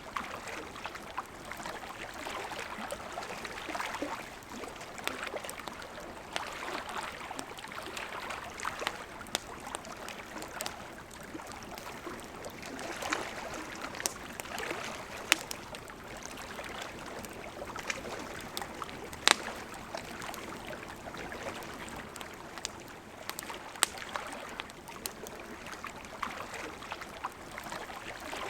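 Campfire crackling with scattered sharp pops, the loudest about 15, 19 and 24 seconds in, over the steady rush of a river.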